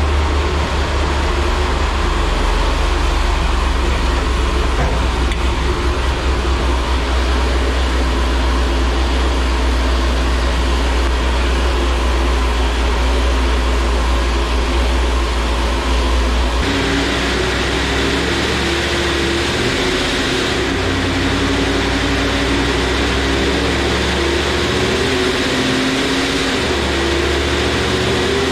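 Supercharged, cammed 5.7 Hemi V8 running steadily on a chassis dyno, a deep constant hum with no rise in revs. About 17 seconds in the sound changes abruptly: the deep hum drops back and a higher, slightly wavering hum comes up.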